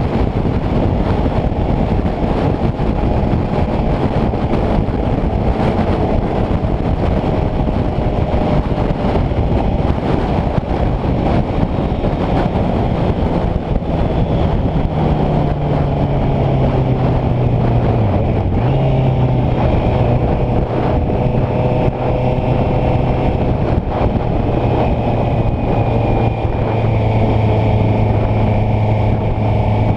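Honda CBR650F's inline-four engine running under way, its note holding fairly steady, buried in heavy wind rush on the microphone.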